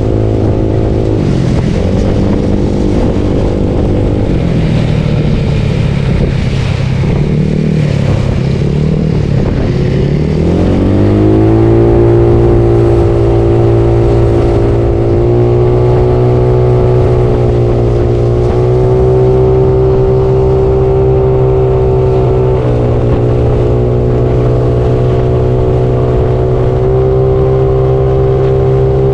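Bored-up Yamaha Mio scooter's single-cylinder engine heard while riding, with a noisy rush over it. For about the first ten seconds the engine speed rises and falls. It then climbs and settles into a steady drone at cruising speed.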